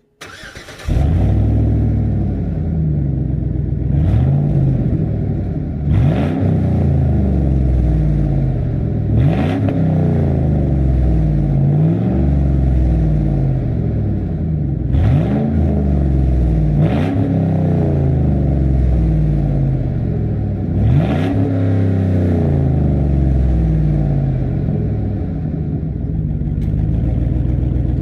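Truck engine started on a newly finished exhaust: it catches within the first second, is revved up and back about six times, then settles to a steady idle for the last several seconds.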